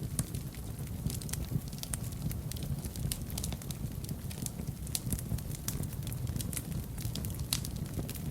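Wood fire burning in a fireplace: a steady low rumble of the flames with frequent sharp crackles and pops scattered irregularly, several a second.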